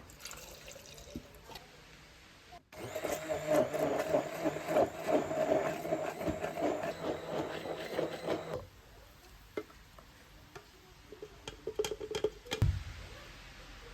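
A small electric motor running steadily with a rattle for about six seconds, starting a few seconds in and stopping abruptly, then a second short burst near the end.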